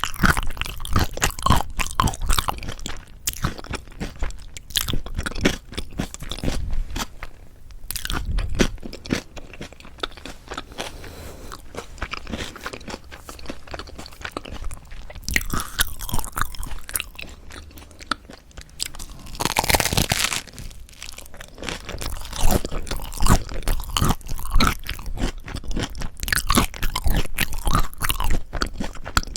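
Close-miked crunching and chewing of toasted Korean salad bread whose crust is crisp and slightly burnt: many sharp crunches with softer chewing between them, and one louder, longer crunch about twenty seconds in.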